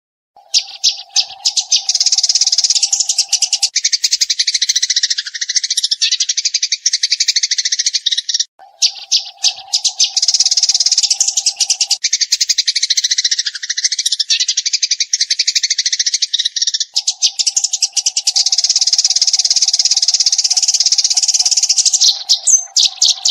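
Eurasian tree sparrows chattering: dense, rapid-fire chirps in three long runs with brief breaks between them. A steady low hum sits under parts of the chirping.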